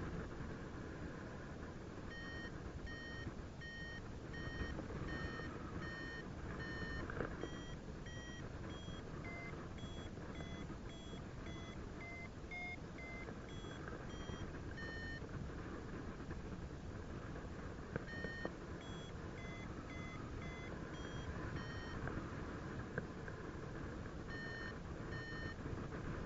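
Paraglider flight variometer beeping in runs of short tones, one to two a second, with the pitch stepping up and then back down. The beeps stop for a couple of seconds twice. This is the climb tone, the sign that the glider is rising in lift. Steady wind noise runs underneath.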